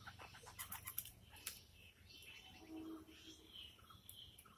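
Near silence: a few faint clicks in the first second or so, then faint short bird chirps in the background.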